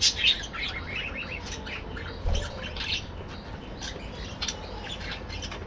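A colony of budgerigars chattering, with many short overlapping chirps and squawks, loudest in a burst right at the start. There are two brief low thumps, one at the start and one a little past two seconds.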